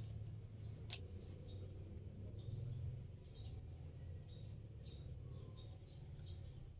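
A small bird chirping again and again: short, high chirps about twice a second over a faint low hum. There is a single click about a second in.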